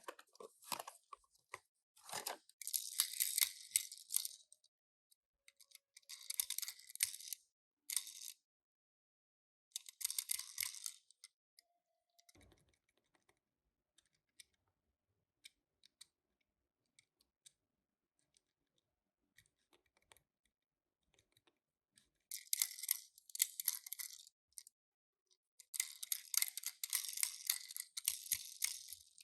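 Toy car packaging being rustled and torn open in several crackly bursts a second or two long, with small clicks and taps in between.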